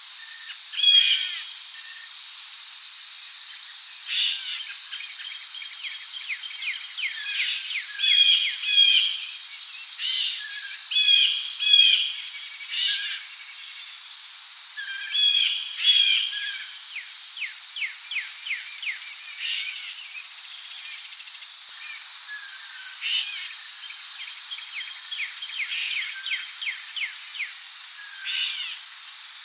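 Rainforest ambience: a steady high-pitched drone of crickets and other insects, with birds chirping and giving quick, falling calls over it every second or two.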